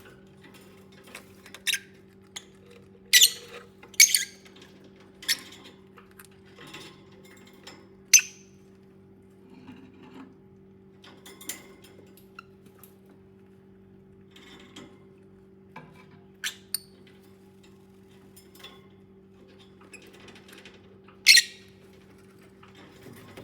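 Pet lovebirds giving short, sharp, high-pitched chirps and squeaks at irregular intervals, a few louder than the rest, over a steady low hum.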